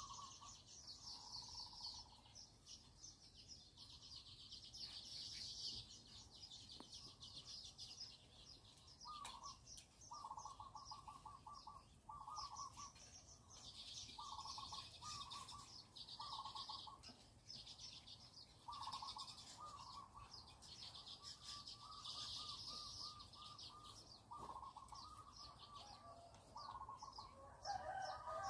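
Faint birds calling: short, rapid trilled calls repeated every second or two over a continuous high chirring, with one louder gliding call near the end.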